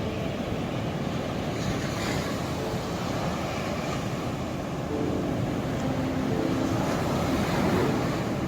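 Ocean surf: a steady wash of breaking waves, with faint short tones in the middle.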